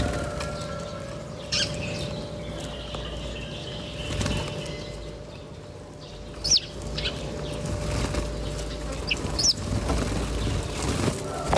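Small birds fluttering their wings, with a few short high chirps about six and a half and nine seconds in, over a steady low hum.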